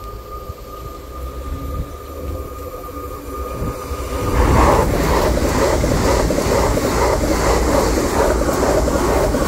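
X60 electric commuter train approaching and then passing close by. The train noise jumps sharply louder about four seconds in as the train reaches the crossing, and then holds as a loud rush with a regular beat.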